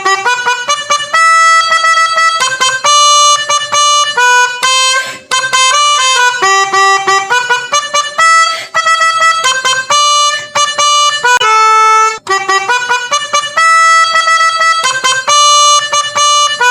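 Toy Basuri bus's electronic sound chip playing a bus-telolet horn tune after its button is pressed: a melody of reedy, horn-like single notes that changes pitch every fraction of a second, with two brief breaks.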